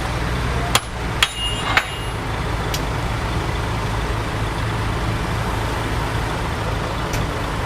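Heavy diesel earthmoving machinery running steadily at a low rumble, with three sharp metallic clanks about one to two seconds in and a faint click later.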